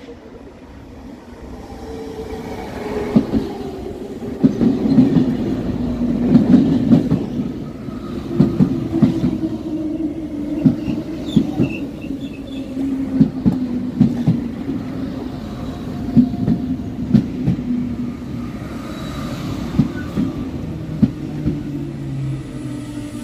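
RER B electric commuter train pulling into a platform and slowing: its wheels knock over rail joints and points in an uneven run of clacks, over a whine that slowly falls in pitch as it slows, dropping lower near the end as it comes to a stop.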